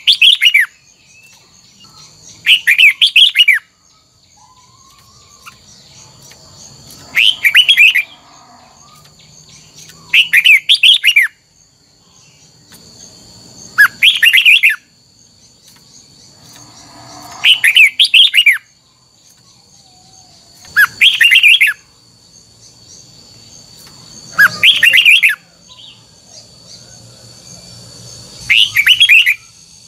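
Red-whiskered bulbul singing short, loud, warbled phrases of about a second each, repeated every three to four seconds, nine phrases in all.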